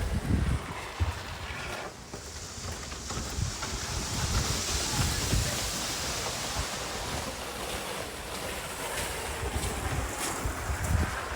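Wind buffeting the microphone in a snow storm: a steady rushing noise with uneven low rumbles as the gusts hit.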